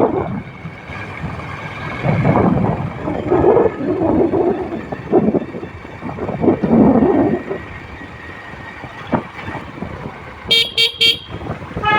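Vehicle horn sounding three quick beeps near the end, over a motorbike riding on the road.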